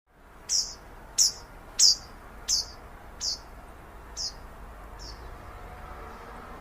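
A bird calling: a series of seven short, high notes, each sliding downward, about two-thirds of a second apart, loudest around the third and fading toward the end, over a low steady background noise.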